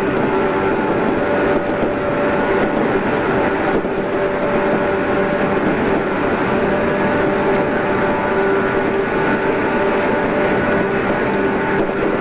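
JR East 113 series electric train running at a steady speed, recorded on cassette tape: a steady rumble with several steady whining tones over it.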